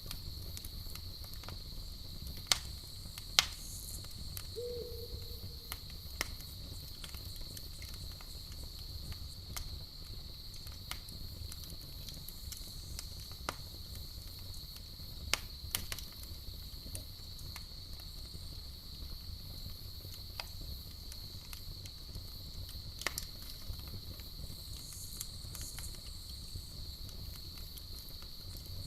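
Campfire crackling and popping in irregular sharp snaps, the two loudest a few seconds in, over a low rumble of burning flames. A steady high-pitched insect trill, like crickets, runs underneath.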